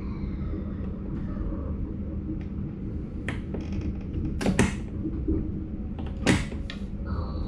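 Cab interior of an NS Sprinter Light Train electric multiple unit rolling slowly: a steady low running rumble, broken by a few sharp knocks in the second half, a double one about four and a half seconds in and the loudest just after six seconds.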